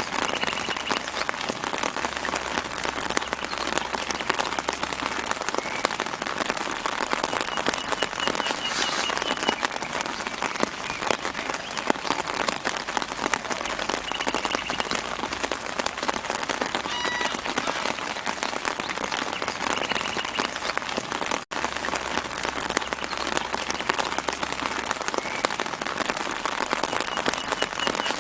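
Steady light rain falling on leaves: an even, dense patter of drops, with faint bird chirps in the background a few times. The sound cuts out for an instant about three quarters of the way through.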